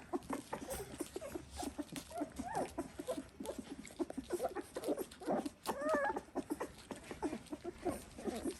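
A litter of three-week-old Dalmatian puppies making many short squeaks and whimpers, with one longer whine about six seconds in.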